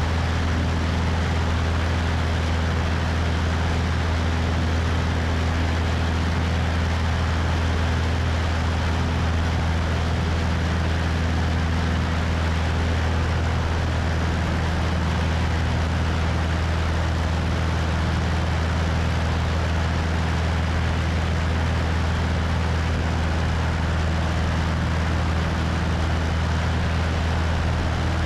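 Cessna 172's piston engine and propeller running at a steady, unchanging drone, mixed with a steady rush of wind over a camera mounted on the wing.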